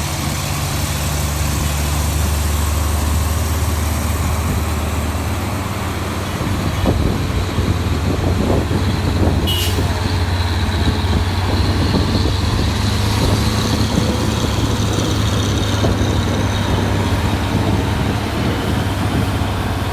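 Heavy trailer truck engine labouring up a steep climb, growing louder and rougher about seven seconds in as the truck comes closer. There is a short sharp hiss about nine and a half seconds in.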